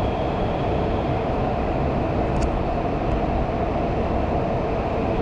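Metro train running between stations, a steady rumble and rushing noise heard from inside the carriage.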